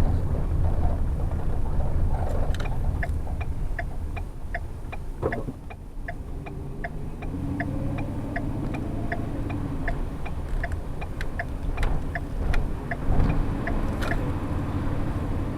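Shuttle vehicle running with a steady low engine and road rumble heard from inside, while a turn-signal indicator ticks about twice a second. The engine note rises about halfway through as the vehicle accelerates.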